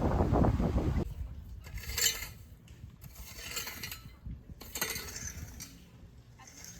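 Wind buffeting the microphone, cutting off suddenly about a second in, followed by a few scattered light clinks and rustles of handled gear.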